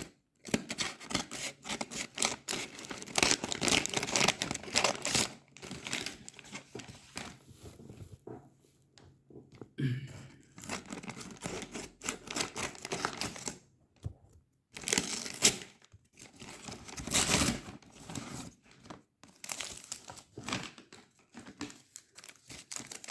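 Shipping parcel being cut with scissors and torn open by hand, its wrapping crinkling and tearing in irregular bursts with short pauses.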